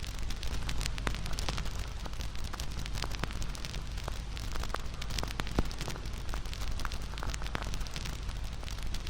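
Wood campfire crackling and popping, with frequent small sharp snaps over a steady low rumble of flames; one louder pop about five and a half seconds in.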